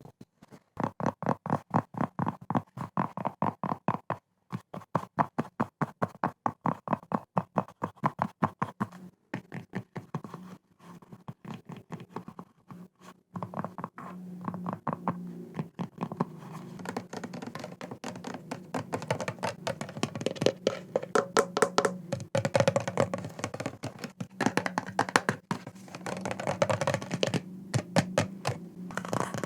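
ASMR tapping on an object: a fast, even run of taps, about six a second, for roughly the first half. After a brief pause about halfway, it becomes denser, faster tapping mixed with scratching.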